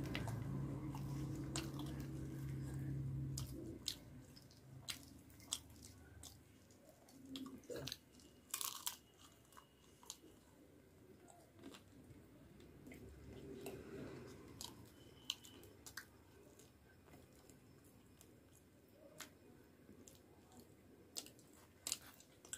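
Quiet close-miked chewing of puri and fried potatoes, with scattered short sharp mouth clicks and smacks. A low steady hum sounds for the first three or four seconds.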